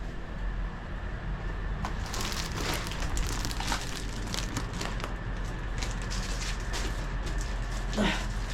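Plastic vacuum storage bags crinkling and crackling as bedding is handled and packed, with a steady low hum underneath.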